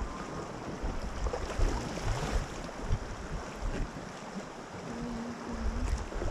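River water rushing and splashing around a raft, with gusts of wind rumbling on the microphone.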